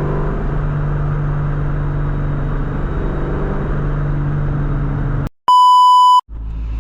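2003 Mustang Cobra's supercharged 4.6-litre V8 running with a steady drone, which cuts off abruptly a little over five seconds in. A loud, steady, single-pitched beep follows for under a second, then the engine drone returns.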